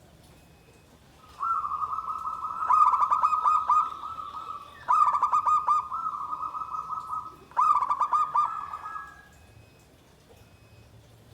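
Zebra dove (perkutut) singing: a clear cooing phrase lasting about seven seconds, broken three times by quick runs of rapid staccato notes, then fading out.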